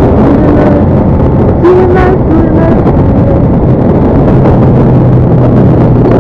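Motorcycle being ridden on the road: the engine runs steadily under heavy wind buffeting on the microphone, with a steadier hum coming in about four seconds in.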